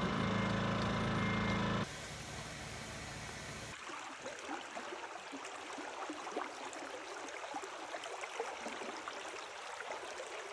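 A loud steady drone with several held tones that cuts off about two seconds in, followed after a short lull by the even rushing of flowing stream water.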